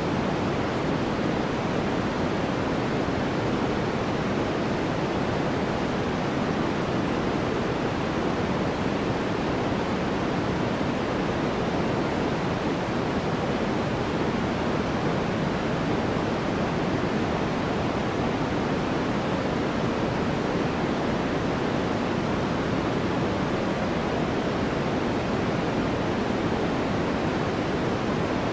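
Steady, unchanging white noise for sleep: an even rush with more weight in the lows and middle than in the highs, with no breaks or changes.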